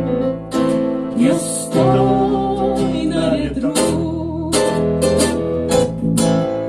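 Acoustic guitars strumming and picking through the instrumental ending of a song after the last sung line, with sustained notes and sharp strokes about every half second.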